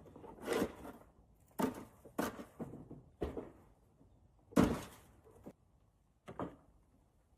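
A series of separate knocks and thumps, about seven, with short quiet gaps between them; the loudest comes about halfway through.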